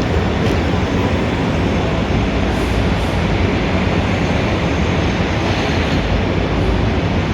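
Steady, dense noise of heavy city street traffic, with a strong low rumble throughout.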